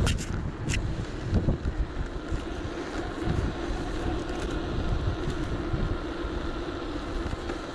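Wind buffeting an action camera's microphone while riding an electric bike, a gusty low rumble over a steady hum. A few sharp clicks in the first second.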